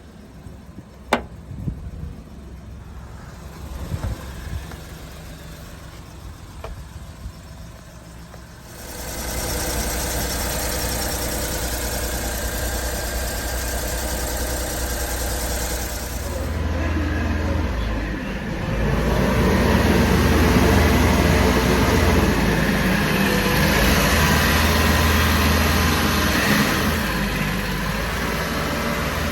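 A few light clicks, then the 1996 Mitsubishi Minicab truck's small three-cylinder engine starts abruptly about a third of the way in and idles steadily. About halfway through it is revved up and held at higher revs, easing back slightly near the end.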